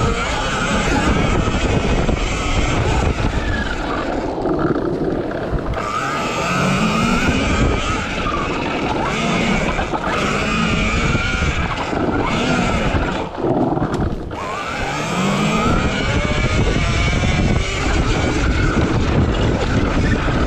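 RFN SX E15 Plus electric dirt bike being ridden hard on a dirt track: its electric motor's whine rises and falls again and again with the throttle, over a steady rushing noise.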